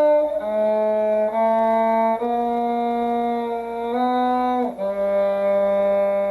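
Violin playing a slow shifting exercise: six sustained bowed notes in turn, D, G sharp, A, A sharp, B, then G, each held about a second, stepping from note to note with small shifts along the string.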